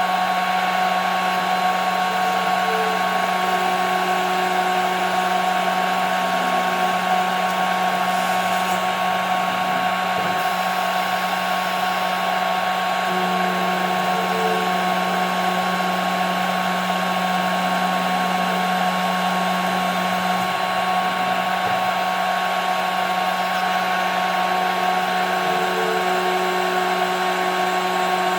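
CNC router spindle running steadily while milling 5 mm plexiglass, a constant whine over a hiss. A fainter tone comes and goes in a pattern that repeats about every eleven seconds.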